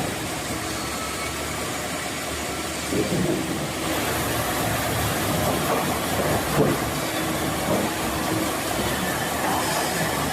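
Wood-cutting machinery running: a steady mechanical noise with a faint hum and a few brief swells.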